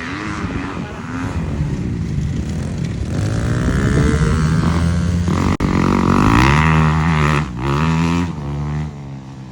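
Dirt bike engine revving hard, its pitch climbing and dropping back several times, then easing off near the end.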